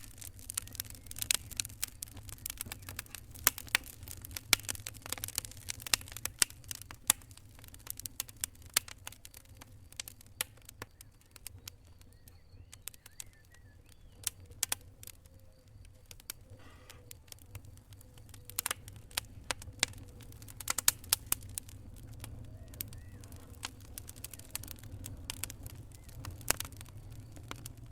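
Log fire in a fireplace crackling, with sharp irregular pops over a steady low rumble of burning wood. The pops come thickest in the first ten seconds and again a little past the middle.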